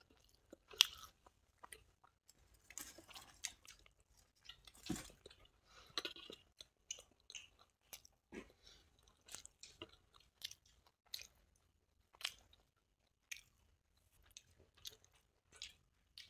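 Close-miked eating: irregular crunchy bites and chewing of crispy fried brinjal and chila, with a sharp crunch a little under a second in.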